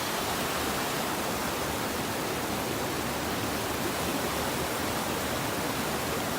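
Todtnau waterfall rushing: a steady, even roar of falling water.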